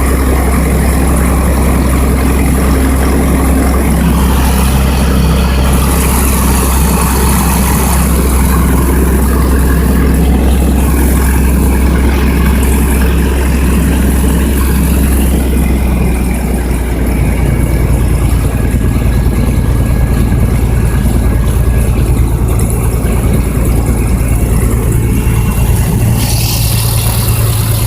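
Small airplane's engine running steadily, heard from inside the cabin on the ground before takeoff. About 17 seconds in, the engine note steps up to a higher pitch as power is added.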